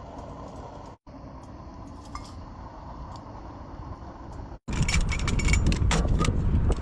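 A steady low rumble of background noise, then, from a cut about four and a half seconds in, louder clinking and knocking of metal cookware being handled, with many sharp clicks over a heavy low rumble.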